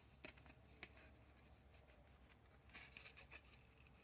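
Near silence, broken by a few faint light clicks and taps of small craft items being handled on a table, with a small cluster of them about three seconds in.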